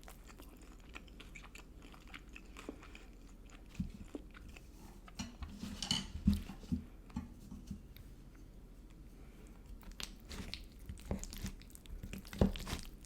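A person chewing and biting food up close, with crunchy bites coming in two clusters, one around the middle and another near the end.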